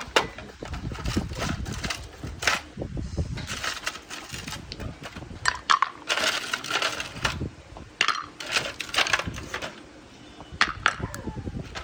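Household handling noises: a run of irregular clinks, knocks and clatter of objects being set down and moved, with rustling in between.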